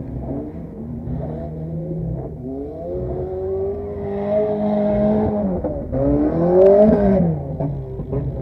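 A demolition-derby car's engine, heard from inside the cabin, revving up and down repeatedly as it is driven hard over the dirt course, with its loudest rise and fall about three quarters of the way through. A few sharp clatters near the end.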